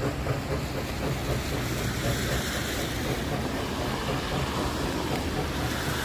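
Train running past with a steady rumbling noise.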